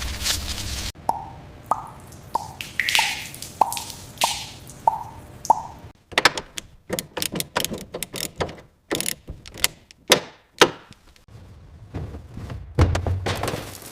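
Workshop hand-tool sounds on metal: about eight evenly spaced taps, each with a short ring, then a quick irregular run of sharp clicks and knocks.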